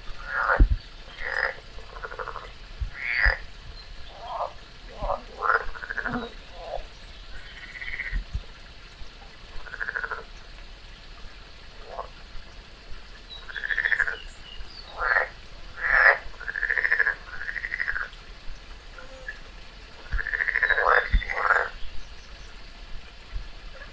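Frog croaking: short, separate calls at irregular intervals, some in quick clusters.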